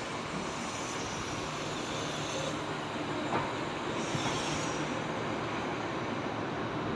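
Kintetsu limited express train (Iseshima Liner) moving slowly alongside the platform with a steady rumble, and wheels squealing briefly twice. A single sharp click about three and a half seconds in.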